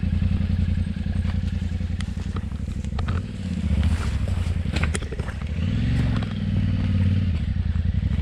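Yamaha Ténéré 700 parallel-twin engine running at low speed off-road, with the revs rising and falling twice under throttle. Scattered short clicks and knocks over the engine.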